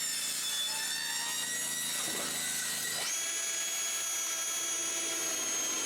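Electric power tool cutting off the excess at the bottom of metal roofing sheets, its motor whining steadily. The pitch steps up about three seconds in.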